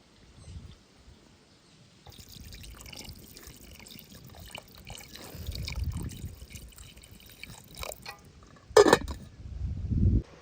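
Water being poured and dripping, with small clinks, and one sharp knock about nine seconds in.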